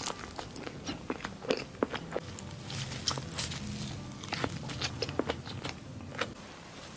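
Close-miked eating: soft crepes filled with chocolate spread being bitten and chewed, with many irregular small clicks and smacks from the mouth.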